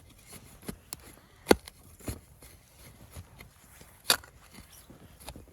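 Scattered knocks, cracks and crunches from sticks and snow being handled at a fire spot, with two sharp, much louder cracks about one and a half and four seconds in.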